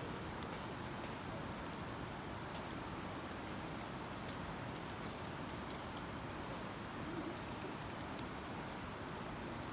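Wood campfire crackling with sparse, faint pops over a steady rushing hiss.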